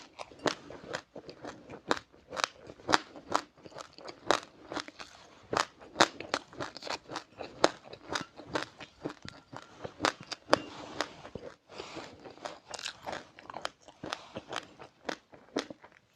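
Close-up chewing of crunchy seeds with passion fruit: a dense, irregular run of sharp crunches, several a second.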